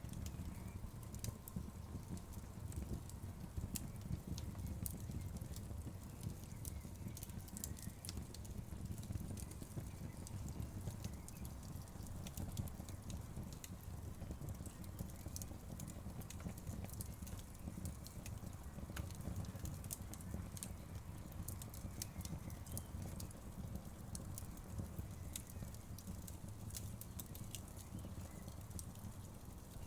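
Wood fire crackling in a fireplace: a steady low rumble of burning with frequent sharp pops and snaps scattered irregularly throughout.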